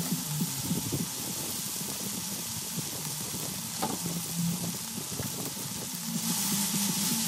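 Food frying in hot oil in a pot: a steady sizzle with a single light knock about four seconds in. The sizzle grows louder near the end.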